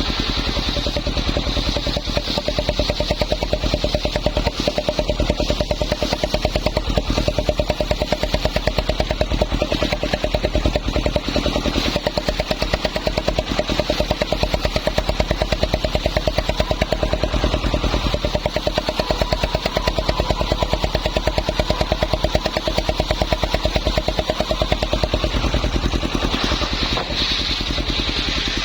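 Homemade circular saw rig running steadily, its motor giving an even, rapid pulsing.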